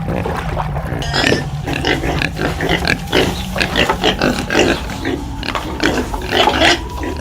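Pigs grunting: many short calls in quick, irregular succession, starting about a second in.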